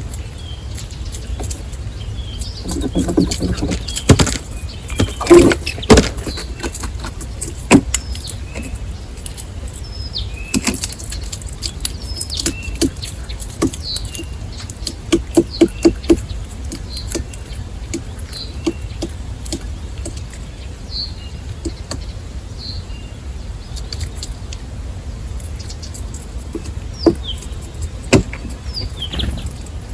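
Small birds at a feeder: short high chirps scattered throughout, mixed with sharp clicks, taps and brief wing flutters, loudest in clusters a few seconds in and about halfway through, over a steady low rumble.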